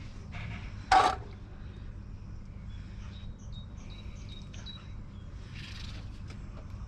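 Gearbox oil being pumped by hand through a hose into the gearbox fill hole. A sharp clack comes about a second in, and faint short high squeaks repeat over a steady low hum.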